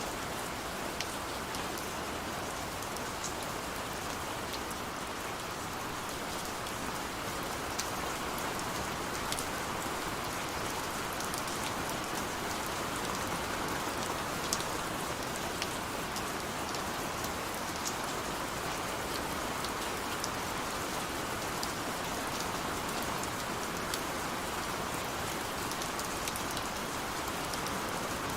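Steady rain falling, a constant hiss with scattered sharper drop taps, as heard against a window.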